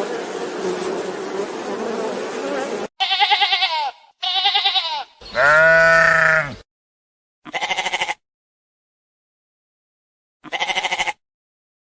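A string of separate animal calls, each cut off into silence. After about three seconds of noisy sound come two short quavering calls and a longer call falling in pitch, then two short pulsing calls near the end.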